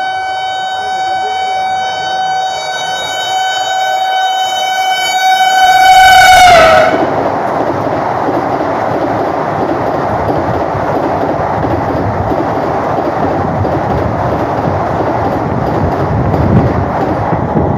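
Vande Bharat (Train 18) electric trainset passing at about 130 km/h, sounding one long horn note that grows louder, then drops in pitch and stops as the front cab passes, about six and a half seconds in. After that comes a steady loud rush of the coaches speeding by.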